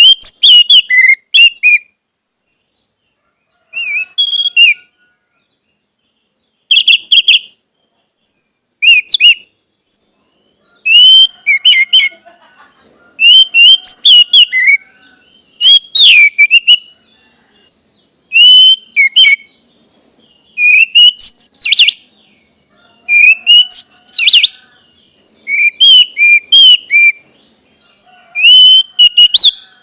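Orange-headed thrush singing: loud, short phrases of rich whistled notes that slide up and down, delivered in clusters with pauses between them. About a third of the way in, a steady high hiss joins and continues under the song.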